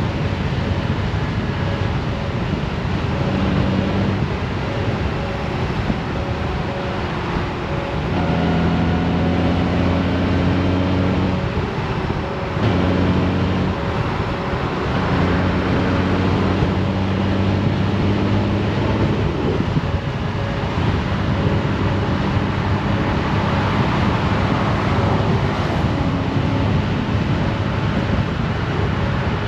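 Honda Gold Wing's flat-six engine running on the road, its pitch stepping up and down several times, over steady wind and road noise.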